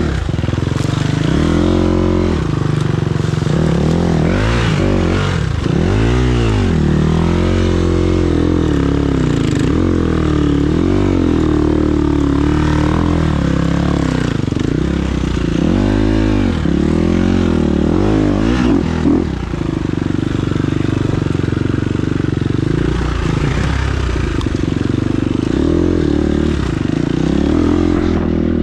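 Enduro motorcycle engine revving up and down again and again, its pitch rising and falling every second or two, with some clatter.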